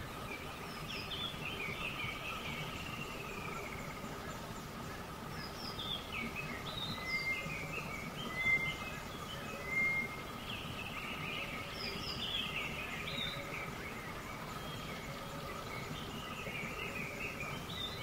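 Birds chirping and calling in short rising and falling phrases throughout, over a steady background hum.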